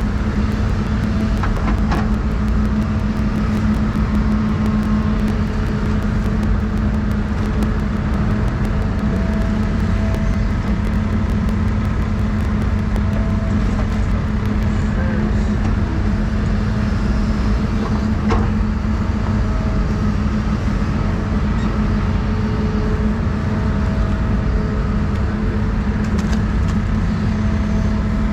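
Doosan 350 excavator's diesel engine running steadily under load, a constant low drone, with faint higher whining tones coming and going as the machine works.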